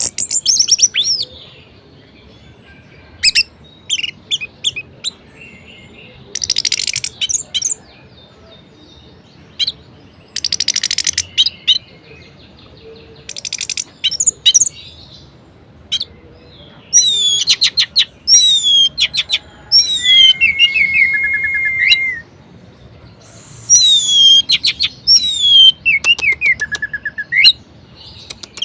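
Orange-headed thrush singing a varied song in separate phrases with pauses between them: rapid trills and sharp falling whistles, and one held whistle about two-thirds through.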